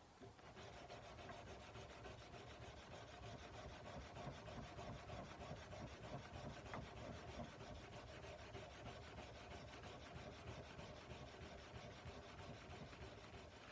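Faint sandpaper rubbing back and forth along a kukri blade in quick, continuous strokes. It starts about half a second in and stops just before the end.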